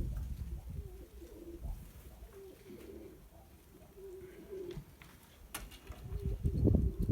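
Domestic pigeons cooing in repeated low phrases. A louder low rumble, like wind or handling on the microphone, comes at the start and again near the end.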